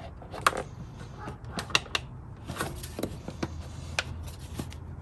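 Sharp clicks and knocks of hard plastic being handled, about seven over a few seconds, as the air box housing and its clips are worked into place.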